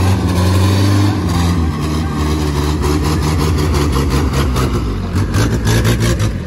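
Truck engine running hard, its note shifting up and down as it works. A fast rattle of clicks comes in over it in the second half.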